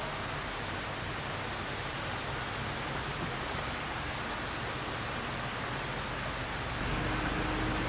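Shallow valley stream flowing steadily over rocks, an even rushing hiss. A low hum joins near the end.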